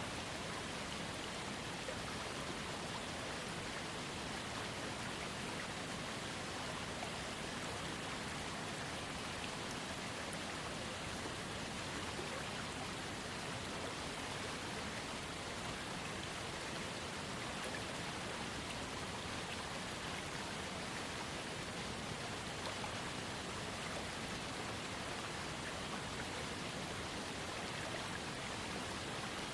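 Small waterfall fed by a trickling creek: water falling and splashing in a steady, unbroken rush.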